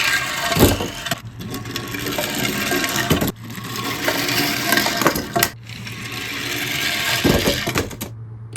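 Die-cast toy cars rolling and rattling down a track in several runs of about two seconds each, with sharp knocks and clatter between runs.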